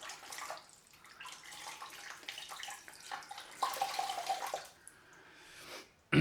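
Hands splashing water at a sink, rinsing shaving lather off the face after a straight-razor pass; the splashing is irregular and dies away about four and a half seconds in.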